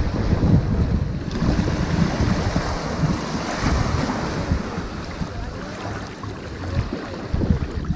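Ocean surf washing up onto a sandy beach as a steady, noisy wash over a low rumble. A wave's hiss swells about a second in and eases off toward the end.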